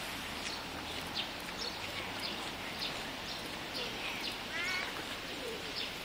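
Small birds chirping repeatedly in short, high calls, about two a second, with a brief rapid trill a little past the middle.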